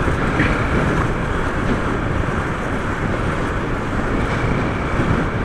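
Steady rush of wind over the microphone mixed with the engine and road noise of a Honda CG 150 motorcycle being ridden, with no distinct engine note standing out.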